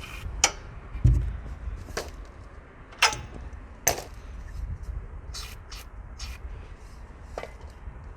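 Irregular sharp metal clicks and knocks, roughly one every second, from a socket wrench working on the bolts of a truck's battery hold-down bracket, over a steady low rumble.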